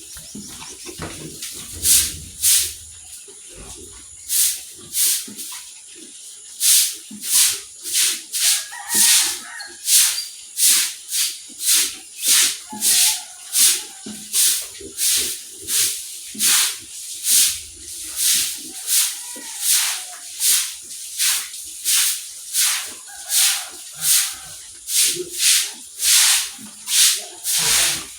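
Stiff brush or broom scrubbing in quick, regular swishing strokes, a little under two a second, starting about two seconds in.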